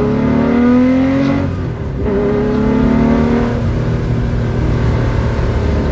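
Air-cooled Porsche 911 3.0-litre flat-six with individual throttle bodies under hard acceleration, heard from inside the cabin. The revs climb, drop at a gear change about a second and a half in, then climb again before levelling off.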